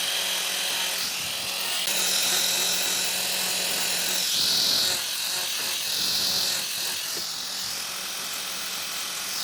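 Electric power tool motor running steadily with a high whine, its sound shifting a little a couple of times as it works the wood.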